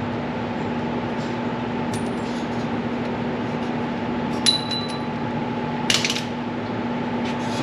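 Metal tools clinking against each other: a light clink about two seconds in, a sharper ringing clink about four and a half seconds in, and a short clatter about six seconds in, over a steady background hum.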